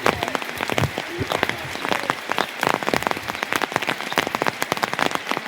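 Rain falling steadily: a dense patter of many drops striking a surface.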